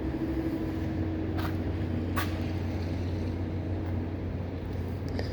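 Steady low mechanical hum with a couple of faint clicks about one and two seconds in.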